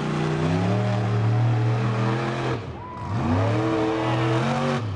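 Monster truck engine revving hard, its pitch swinging up and down; the throttle drops off briefly a little past halfway and the revs then climb again.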